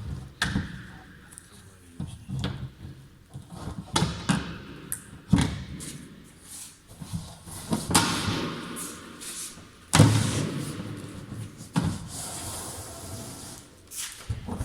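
Chimney pipe section being slid along its guide rails and worked into its locking joint: a string of irregular thumps and knocks with scraping in between, the loudest knock about ten seconds in.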